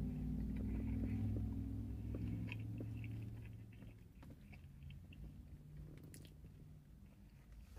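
A person chewing a mouthful of fried chicken sandwich on donut buns with the mouth closed, making small soft clicks of chewing. A low steady hum under it fades out about halfway through.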